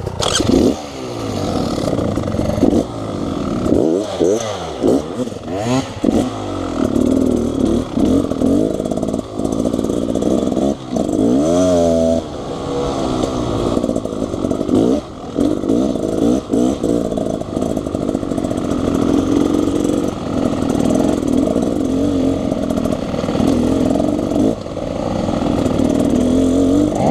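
Dirt bike engine revving hard, its pitch climbing and dropping again and again as it is throttled on and off.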